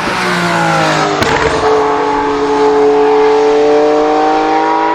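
Porsche 930 TAG Turbo's 1.5-litre TAG-Porsche turbocharged V6 running hard as the car drives. Its pitch drops over the first second and a half, then climbs slowly and steadily as the car accelerates.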